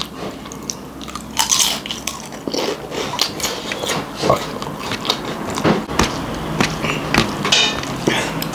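Close-up eating sounds: people chewing a meal of rice, gundruk soup and pickle, with many irregular wet mouth clicks and smacks.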